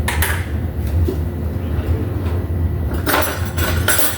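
Kitchen handling noises over a steady low hum: a short knock at the start and a dense rustling clatter about three seconds in, like a cupboard being opened and shut.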